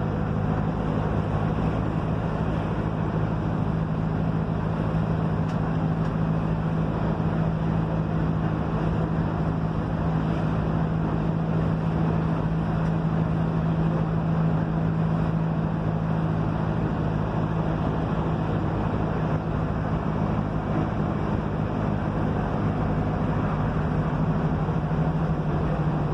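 Mercedes-Benz OF-1721 city bus diesel engine running steadily at an even pace, with a constant low hum over road and tyre noise.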